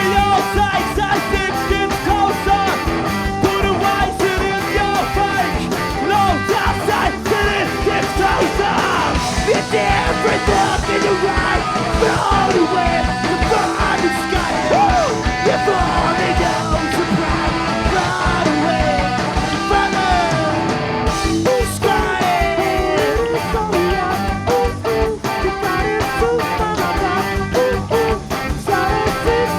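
Live punk rock band playing a fast song: pounding drum kit, distorted electric guitars and bass, with shouted singing over it.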